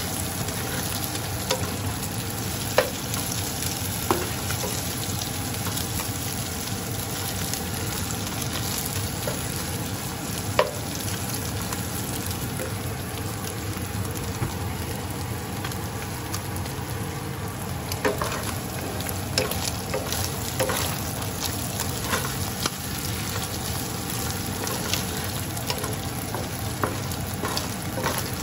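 Chopped garlic and onion sizzling in oil in a nonstick frying pan, stirred with a wooden spatula. Occasional sharp taps come through the steady sizzle.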